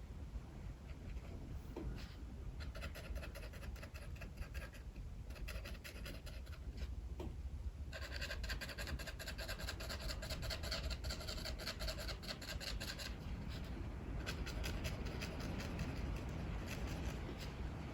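Sketching on paper: quick back-and-forth shading strokes that scratch in rapid runs, stopping and starting several times. Under them runs a steady low rumble of strong wind.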